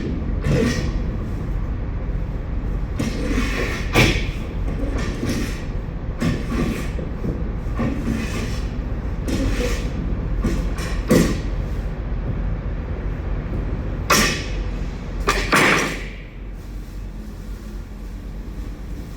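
Irregular scrapes and knocks on the metal floor of a semi-trailer as leftover potatoes are cleared out by hand, over a steady low rumble. The sharpest knocks come about 4, 11, 14 and 15 seconds in, and the noise settles down after about 16 seconds.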